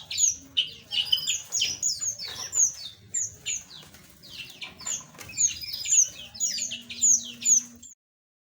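A flock of small aviary birds chirping, with many short, quick downward-sweeping chirps overlapping one another. The sound cuts off abruptly near the end.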